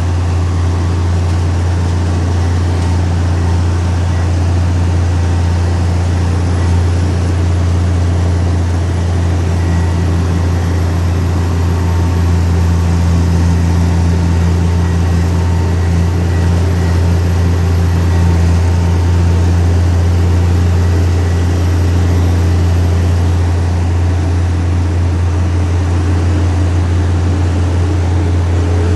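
Heavy earthmoving machine's diesel engine running steadily, a deep constant hum with no change in speed.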